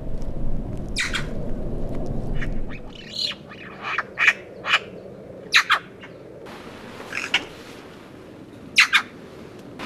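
Wild birds calling: about a dozen short, sharp calls scattered through, several in quick pairs. A low rumbling noise lies under them for the first three seconds and then drops away.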